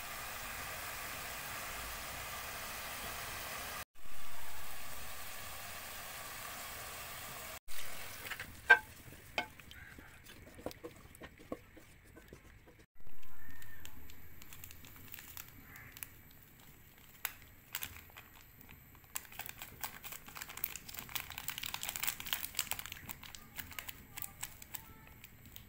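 Chicken frying in masala in a pan, sizzling, with a wooden spatula stirring and scraping. The sizzle cuts in abruptly several times, loud at first and then fading, with clicks and crackles in between.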